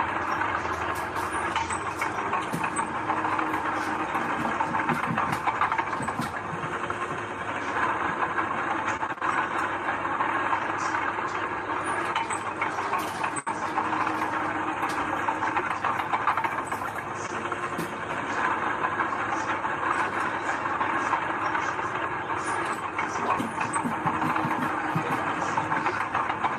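Heavy diesel earthmoving machinery running steadily, with many short metallic clicks and clanks throughout.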